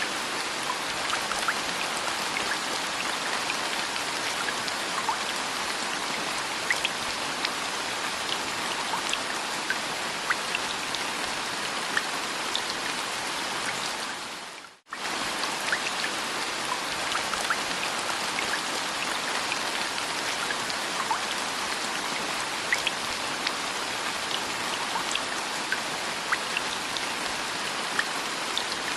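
Steady rain with individual drops pattering on a surface. It briefly fades out and comes straight back about halfway through, like a looped rain recording.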